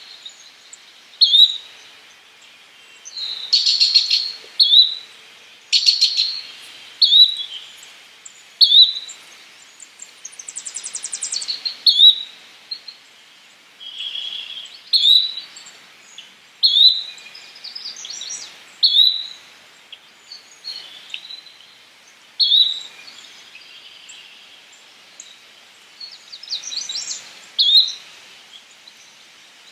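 Yellow-bellied flycatcher giving its short, upslurred call over and over, about every one and a half to two seconds. Other chirps, buzzy notes and a quick high trill are mixed in.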